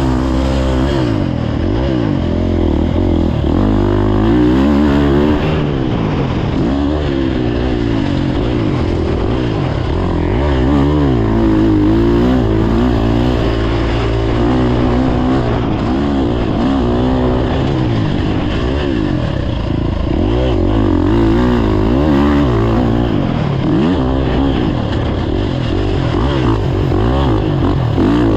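Motocross dirt bike engine being ridden hard on a track, revving up and dropping back again and again as the throttle opens and closes.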